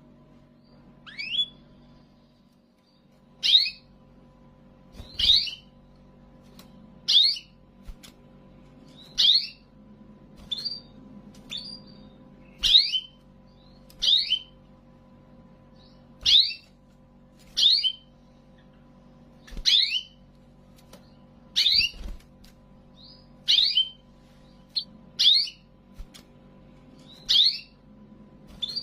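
Canary calling with a short upward-sweeping chirp, repeated about every one and a half to two seconds, now and then as a quick pair.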